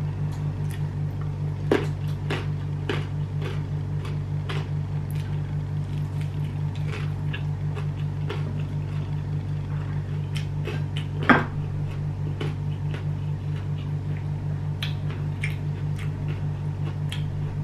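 A person eating with their fingers: close-up chewing and mouth clicks, with scattered light ticks, two of them sharper, about two seconds in and, louder, about eleven seconds in. A steady low hum runs under it.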